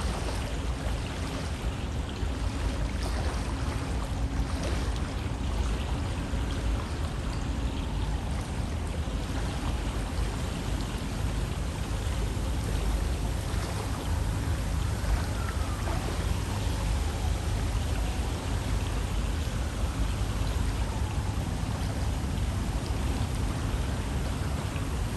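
River water flowing steadily, an even rush of water with no break. Two faint falling whistles are heard in the second half.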